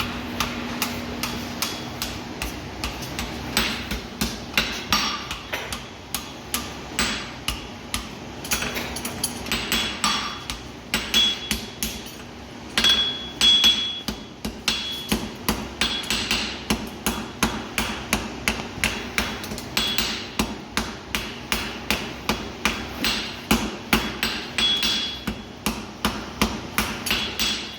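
Farrier forging a horseshoe: a hand hammer strikes steel on an anvil in a steady run of blows, about two to three a second, some of them ringing out briefly.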